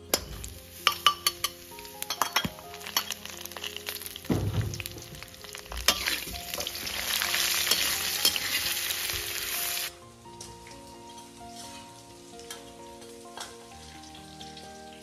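Cured pork frying in a wok over a wood fire, sizzling, while a metal ladle stirs and clinks against the wok. The sizzling is loudest toward the middle and drops away suddenly about ten seconds in, leaving only faint clinks.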